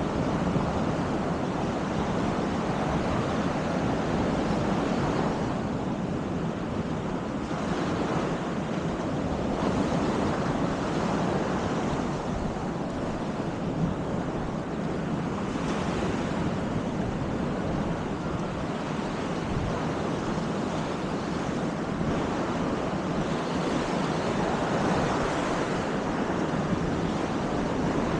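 Baltic Sea waves breaking and washing on a sandy beach in a continuous, even rush that swells and eases every few seconds, with wind rumbling on the microphone.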